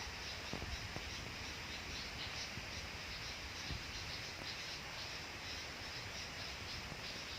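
A gathered flock of small birds chirping: many short, high chirps overlapping without pause, with a few faint clicks.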